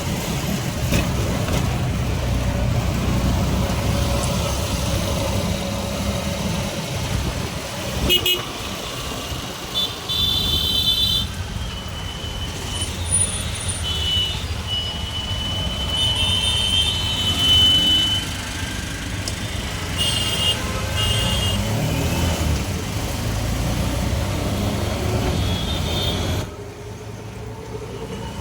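Road traffic with engines running and vehicle horns honking several times through the middle stretch. The noise drops briefly near the end.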